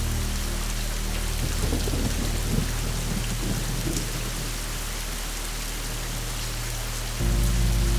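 Steady rain falling, with a low rolling rumble of thunder from about a second and a half in until around four seconds in.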